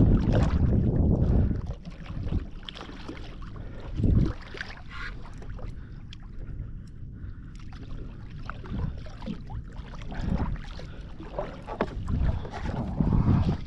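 Water splashing and sloshing against a kayak, with low thumps and wind buffeting, as a big fish is wrestled alongside the boat. The bursts come at the start for about a second and a half, briefly about four seconds in, and again near the end.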